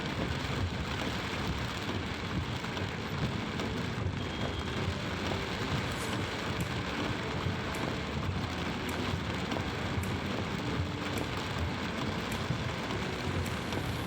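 Heavy monsoon rain falling steadily, with the low noise of slow-moving road traffic beneath it.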